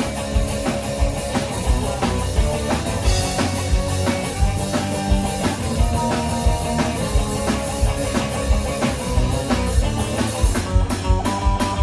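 Live rock band playing an instrumental passage: drum kit keeping a steady beat under guitar, with the cymbals dropping away near the end.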